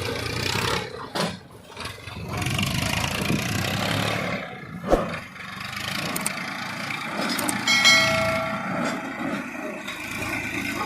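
Massey Ferguson 1035 DI tractor's diesel engine running, its level rising and falling, with a sharp knock about five seconds in. About eight seconds in there is a short bell-like ringing tone.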